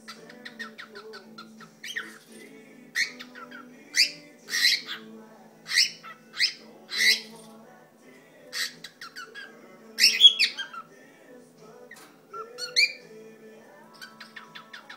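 Cockatiel singing: a quick run of short chirps, then a string of loud whistled notes and squawky calls, with a sharp burst about ten seconds in.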